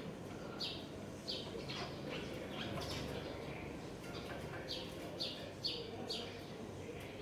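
Small birds chirping: short, high chirps that come irregularly, sometimes two or three close together.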